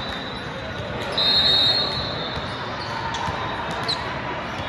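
Indoor court game: balls bouncing and voices echoing in a gym hall. About a second in comes a short, high whistle blast of about half a second, the loudest sound. A brief squeak follows near the end.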